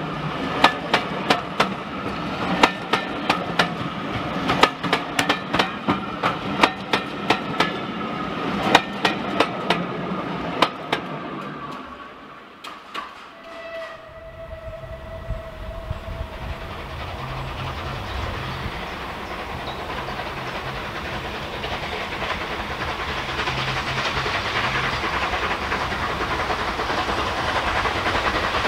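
Railway coaches passing close by, their wheels clicking rhythmically over the rail joints, several clicks a second, for about the first twelve seconds. After a short lull, a steam locomotive and its train approach from a distance, the sound of it working growing steadily louder, with a brief steady tone just after the lull.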